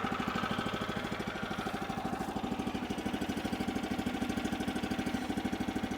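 Woodland Mills sawmill's small gasoline engine idling steadily, warming up just after a cold start.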